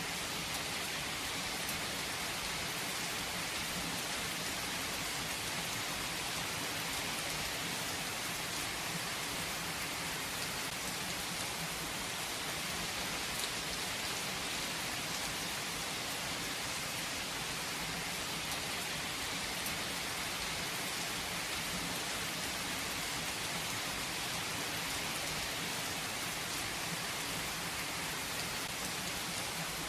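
Steady rain falling, an even hiss of rainfall with scattered distinct drops.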